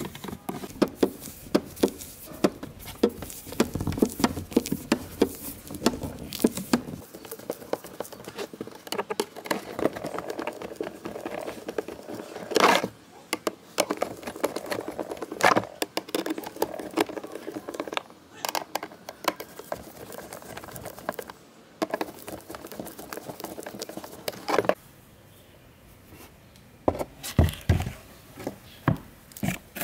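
Irregular clicks, knocks and rustling from hand work on fan parts. There are a few sharper knocks about halfway through, and a small cluster near the end.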